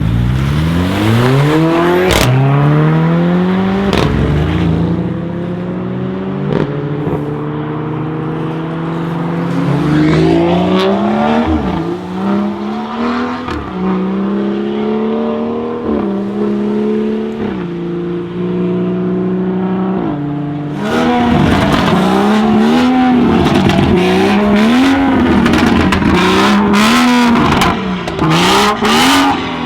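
Stage 2 tuned BMW 440i's turbocharged straight-six, with a catless downpipe and M Performance exhaust, accelerating hard through the gears. The pitch climbs and drops sharply at each upshift, with a crack at some shifts. In the second half the revs rise and fall repeatedly, with a run of sharp cracks near the end.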